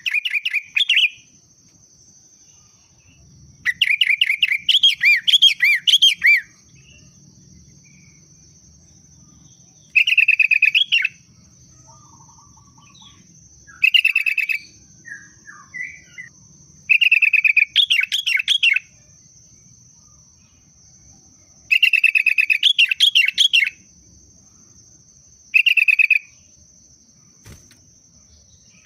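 Sooty-headed bulbul (kutilang) singing loud, bubbling whistled phrases in seven separate bursts of about one to three seconds each, with pauses of a few seconds between them.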